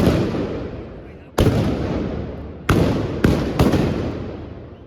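Trabucs, the blunderbusses of a trabucaire troupe, firing black-powder blank shots: five sharp, loud blasts at uneven intervals, the last three close together, each followed by a long echo that fades.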